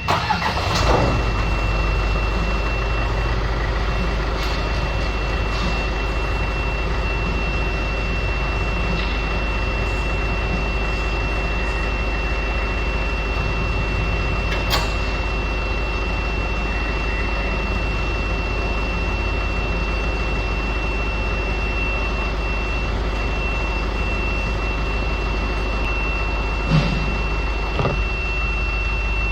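Isuzu N series truck's 4JJ diesel engine running with the PTO hydraulic pump engaged to work the tipper. It makes a steady drone with a high, steady whine over it. There is a sharp click about halfway through and a short knock near the end.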